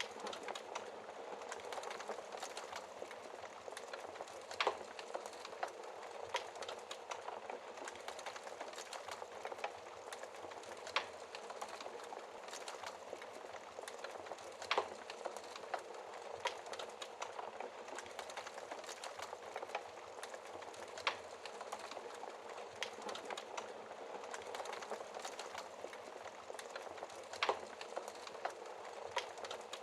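Wood fire crackling in a fireplace: a steady stream of small crackles and hiss, with a sharper pop every few seconds.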